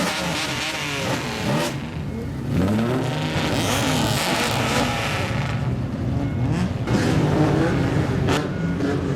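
Car engine with a straight-piped exhaust revving again and again, its pitch rising and falling in quick swoops.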